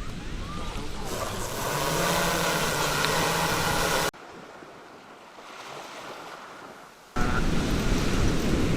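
Wind buffeting the microphone over sea water noise, with a steady engine hum in the middle; the sound changes abruptly about one, four and seven seconds in, quieter between four and seven seconds.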